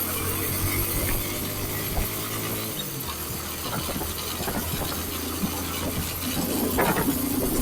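Motorcycle engine running while riding, its pitch falling over the first three seconds as it slows, then holding steady, over a steady rushing hiss.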